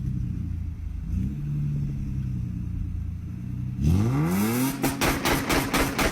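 Car engine idling, blipped slightly about a second in, then revved hard about four seconds in with a fast rising pitch. A rapid string of sharp exhaust pops and crackles follows as the revs drop.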